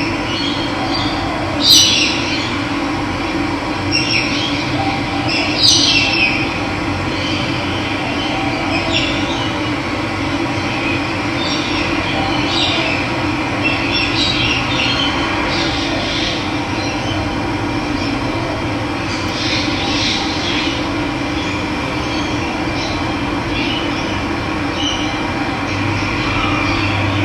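Running water rushing steadily, with birds chirping briefly every few seconds over it.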